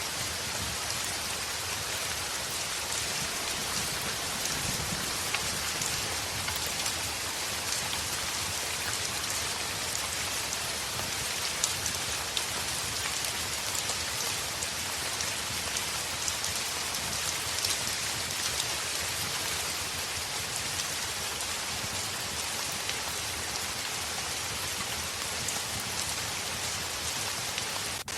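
Heavy rain falling steadily on a window glass, a dense patter of many small drop ticks, with a low rumble underneath.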